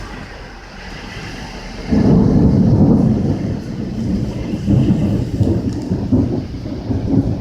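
Thunder from a supercell storm: a sudden loud crack about two seconds in that rolls on as an uneven low rumble, over steady rain.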